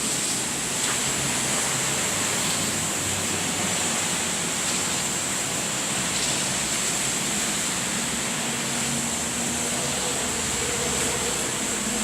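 Steady rain of a thunderstorm, an even constant hiss.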